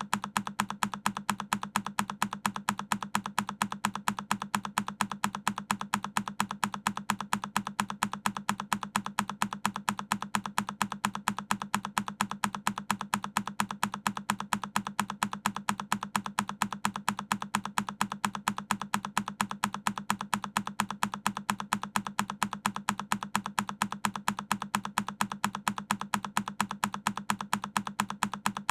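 A single key press on a Keychron K10 mechanical keyboard, looped into a steady, evenly spaced run of rapid clicks.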